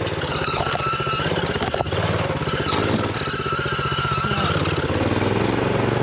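Honda GX390 single-cylinder four-stroke engine running on a minibike, its speed rising and falling a few times. A high whine comes and goes twice over the engine note.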